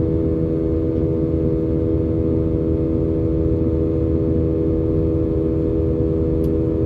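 Cabin noise of an Airbus A320-232 climbing under its IAE V2500 engines: a steady drone made of a low rumble and a cluster of steady humming tones.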